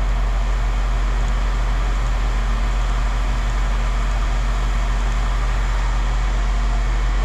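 A motor vehicle engine idling steadily with an even low hum.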